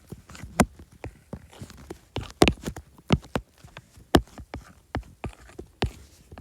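Apple Pencil tip tapping on an iPad's glass screen while drawing: irregular sharp clicks, a few per second.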